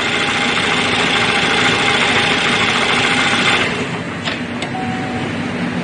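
A 2013 Chevy Malibu's 2.5-litre four-cylinder engine idling, then shut off about three and a half seconds in. After it a couple of sharp clicks and a short beep come as a restart is tried, but the engine does not crank: the no-start fault that the mechanic traces to a bad ground circuit.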